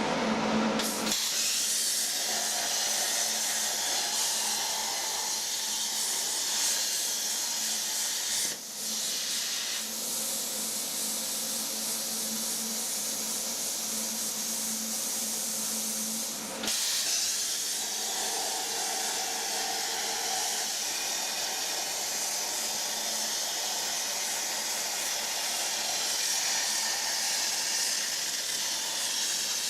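CNC plasma cutter torch cutting 4 mm steel plate: a loud, steady hiss of the plasma arc and air jet, broken off abruptly a couple of times.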